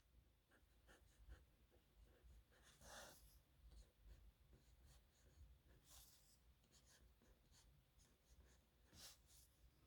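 Pen nib scratching faintly on paper in short writing strokes, with a few louder scrapes about three, six and nine seconds in.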